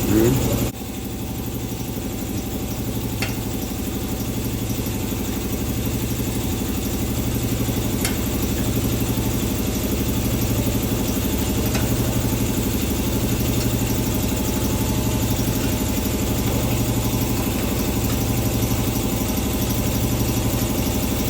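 An engine idling steadily, with a brief dip in loudness about a second in.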